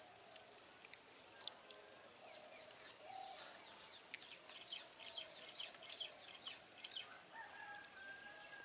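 Faint bird calls in the background: a few drawn-out wavering calls, and a quick run of short chirps from about three and a half to seven seconds in, with a higher held call near the end.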